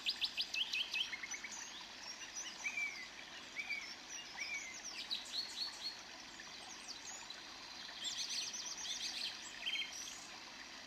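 Several birds calling: rapid runs of high chirps near the start, again about five seconds in and around eight seconds, with short falling whistled notes in between, over a faint steady background hiss.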